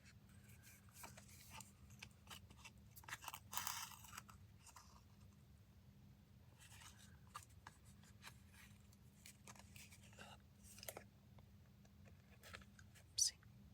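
Faint handling sounds of paper and thread while a paper tag is hand-stitched: scattered light scratches and rustles, a louder rustle about four seconds in, and a sharp tick near the end.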